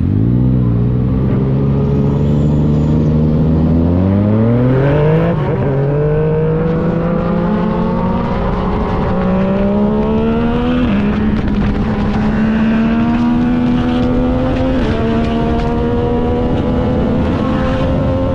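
Yamaha MT-09 inline three-cylinder engine accelerating up through the gears, its pitch climbing and then dropping abruptly at three upshifts, with wind rush underneath.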